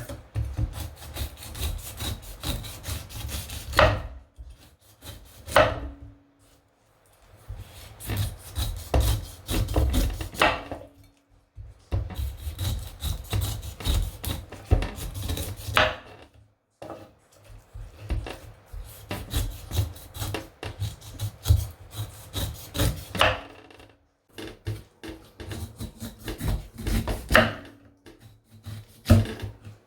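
Rapid scraping strokes against wood, in runs of a few seconds broken by short pauses, with an occasional sharper, louder stroke.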